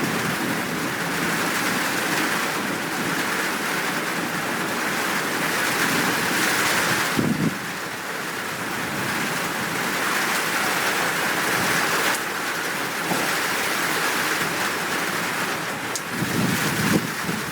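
Steady heavy rain falling, with a low rumble of thunder starting near the end.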